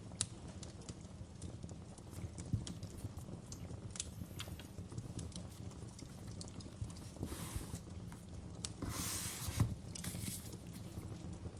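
Crackling wood fire from a fireplace sound-effect track: irregular sharp crackles and pops over a steady low rumble, with a few brief hissing swells late on.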